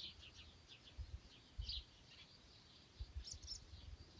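Faint birds chirping in short scattered calls, with a couple of quick rising chirps about three seconds in. A few soft low thumps stand out as the loudest moments.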